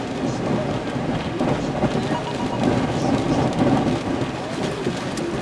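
Tropical-storm wind and driving rain: a dense, steady rush that swells and eases in gusts, with the wind buffeting the microphone.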